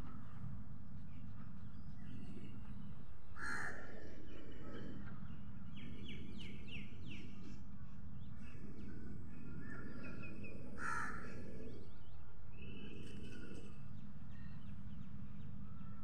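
Birds calling outdoors: two loud calls about three and a half and eleven seconds in, with shorter chirps between them. A steady low hum and rumble of outdoor ambience runs underneath.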